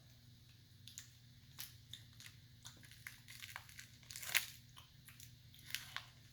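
Someone biting into and chewing a crispy white-chocolate-coated wafer snack: a scatter of sharp crunches, the loudest about four seconds in.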